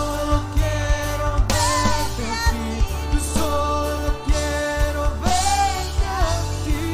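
Christian worship band music: a steady drum beat and sustained bass under a gliding melody line that may be sung.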